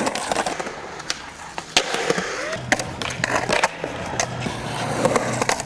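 Skateboards rolling over concrete, with repeated sharp clacks of boards slapping down and tails popping; a steady low rumble of rolling wheels joins about two and a half seconds in.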